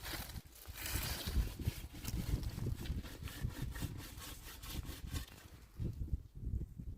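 Hand work on wood: a run of rough scraping strokes in quick succession that eases off near the end.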